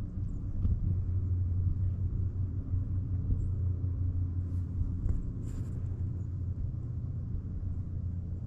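Steady low rumble with a constant droning hum, like a running vehicle, with a few faint clicks about five seconds in.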